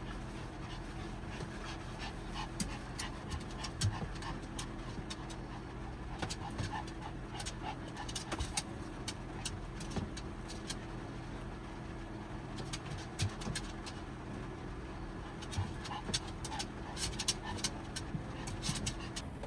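Pomeranian panting, over a steady low hum, with scattered sharp ticks.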